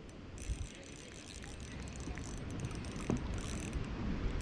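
Fishing reel being cranked as a hooked bass is reeled in, with a light mechanical ticking from the reel. Wind rumbles on the microphone.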